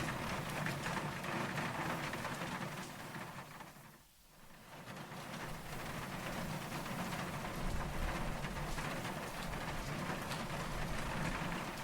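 Steady rain falling. About four seconds in, it fades nearly out and swells back up within a couple of seconds.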